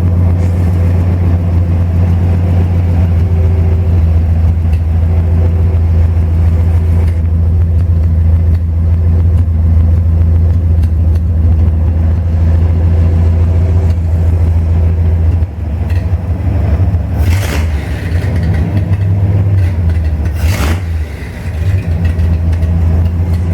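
Chevrolet 235 straight-six running steadily at idle during its first start-up in a home-built T-bucket. About fifteen seconds in its note shifts and dips, and two short sharp noises rise over it a few seconds apart.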